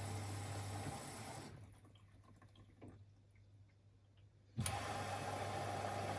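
Siemens Extraklasse XLs 140 A washing machine taking in water with a steady hum. The flow cuts off about a second and a half in, leaving a quieter gap with a few faint ticks, then rushes in again suddenly near the end.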